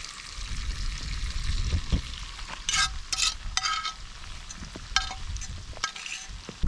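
Meat sizzling as it fries in butter and olive oil in a pan, a steady hiss, with a few short sharp ringing clinks about three and five seconds in.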